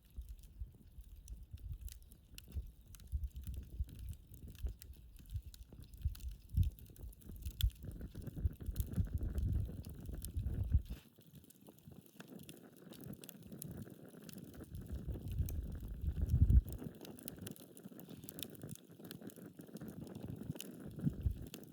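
Wood campfire crackling, with scattered sharp pops and an uneven low rumble that cuts off about eleven seconds in and comes back a few seconds later.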